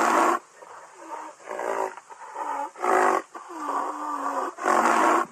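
Rhinoceros calling: three loud, harsh bellowing calls, at the start, about three seconds in and near the end, with quieter moaning calls that rise and fall in pitch between them.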